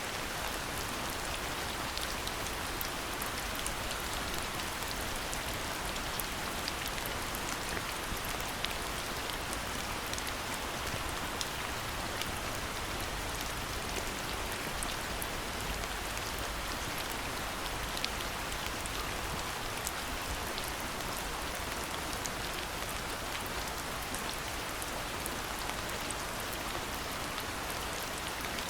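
Steady rain falling, with many small drops pattering on surfaces and occasional sharper individual drips.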